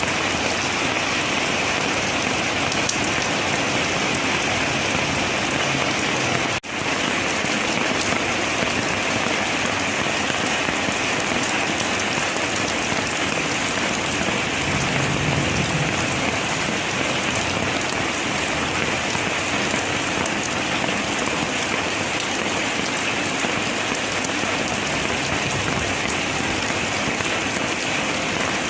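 Steady rain falling. The sound drops out for an instant about a quarter of the way in.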